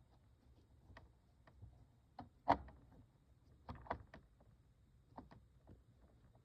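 Plastic toy aquarium being handled: scattered irregular clicks and small knocks, with one louder knock about two and a half seconds in and a few more just after.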